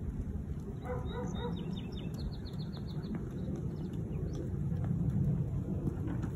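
A songbird trilling a quick run of high chirps about a second or two in, after a few short pitched calls, over a steady low rumble of background noise.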